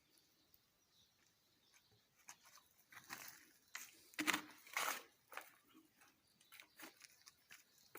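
Irregular crunching and scraping of garden soil being dug and worked into planting holes, starting about two seconds in and loudest about halfway through.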